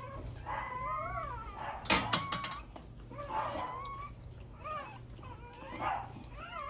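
Newborn American Bully puppies crying in short, high whines that glide up and down, over and over. A quick cluster of sharp clicks about two seconds in is the loudest sound.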